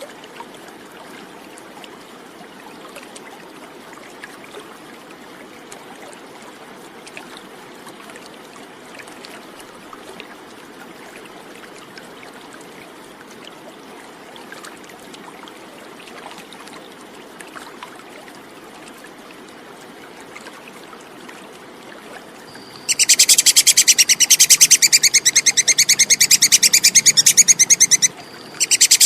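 Squirrel's 'kekes' chatter call: a loud, very rapid, high-pitched stream of clicks. It starts about three quarters of the way through, stops for a moment and starts again near the end. Before it there is only a faint steady hiss like running water.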